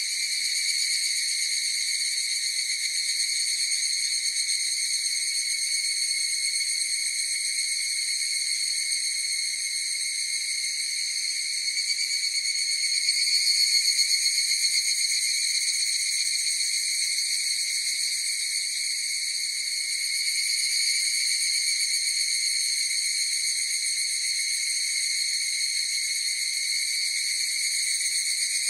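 Chorus of higurashi (evening cicadas) calling: a continuous high, ringing buzz that swells a little around the middle.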